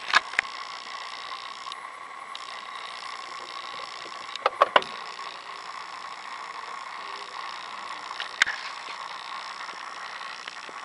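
Steady high electric whine from a car with its ignition switched on and the engine not running, broken by sharp clicks at the start, a cluster of three about four and a half seconds in, and one more near eight and a half seconds.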